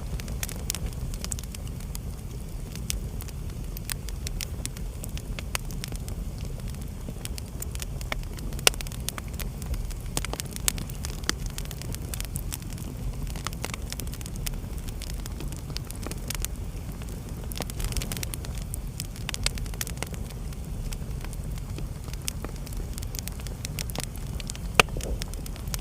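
Wood fire burning in a fireplace: a steady low rumble of flames with frequent irregular crackles and pops, a few sharper snaps standing out.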